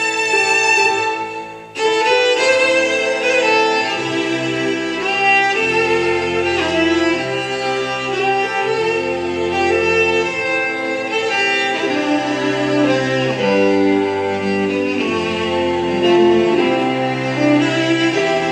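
Celtic fiddle melody on violin over a string ensemble's sustained accompaniment, with low bowed bass notes changing every second or two. The music drops away briefly just under two seconds in, then resumes.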